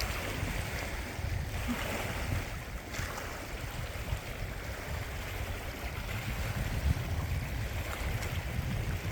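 Wind on the microphone, a strong uneven low rumble, over a steady wash of lake water and rain noise. There is a single click about seven seconds in.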